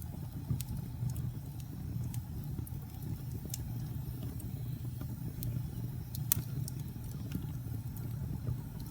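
Fire in a fireplace crackling: a steady low rumble with frequent irregular sharp pops and snaps, the loudest about six seconds in.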